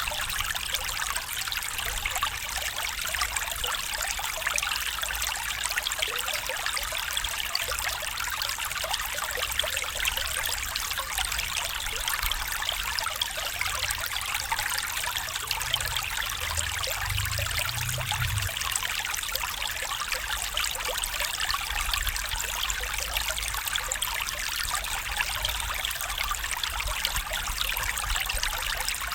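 Small stream trickling and babbling over stones, a steady bright splashing with no let-up. A brief low rumble sits under it about halfway through.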